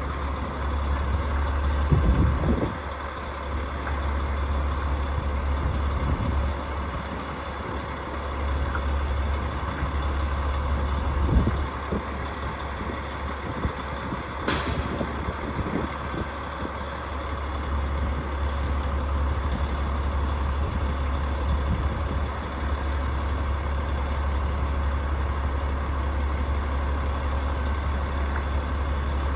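Rooftop HVAC unit running with a steady low hum, with a brief hiss about halfway through.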